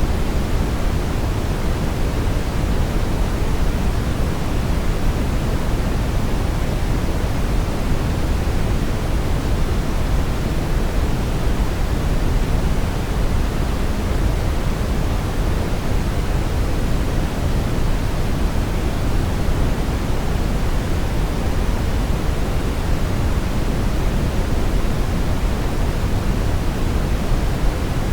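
Brown noise: a steady, even rushing hiss weighted toward the deep end, unchanging throughout.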